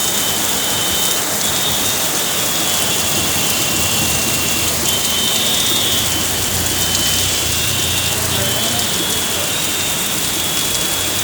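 Heavy rain pouring down steadily, an even hiss of rain hitting the ground and surfaces.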